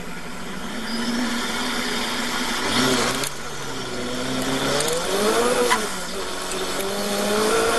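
Supercharged Sylva Phoenix sprint car's engine revved on the start line, then launching hard at full throttle. The pitch dips as the car pulls away about three seconds in, then rises steeply, drops at a gear change a little past halfway, and climbs again.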